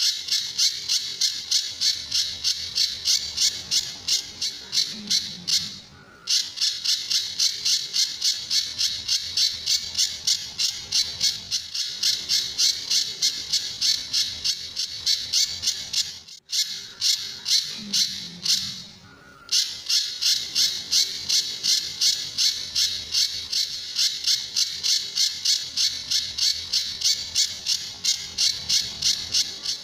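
A pijantur songbird calling in a fast, even series of sharp high notes, about three a second. It pauses briefly about six seconds in and again for about three seconds past the middle. These are the harsh, rapid 'tembakan' shot-like notes that keepers play as a master call for training other songbirds.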